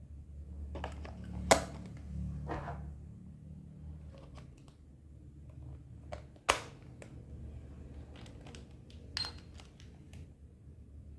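Small plastic toy kitchen pieces being handled and set down: scattered light clicks and taps, with two sharper clicks, one about a second and a half in and one about halfway.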